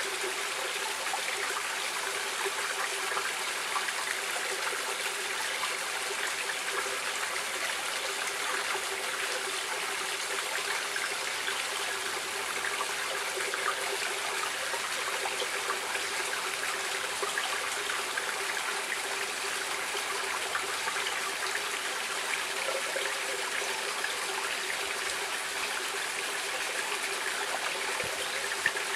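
Stream water running steadily over stones, an even rushing and trickling hiss, with one brief tick near the end.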